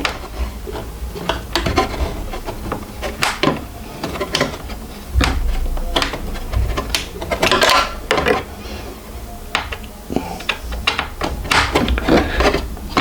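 Irregular clicks, taps and scrapes of a tool and hands working at a shipping screw inside a 3D printer, with a few dull thumps.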